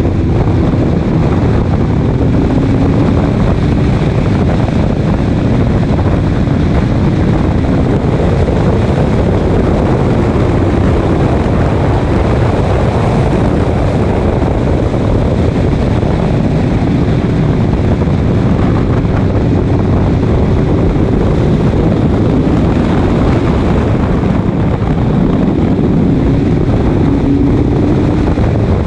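Race car at speed, its engine running loud under heavy wind rush on the microphone, the engine note rising and falling slowly.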